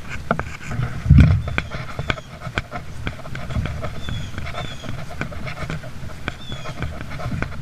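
Footsteps and gear knocking along a forest portage trail, with a steady low rumble of walking and handling noise. Short high chirps come a few at a time in small runs, about four seconds in and again near the end.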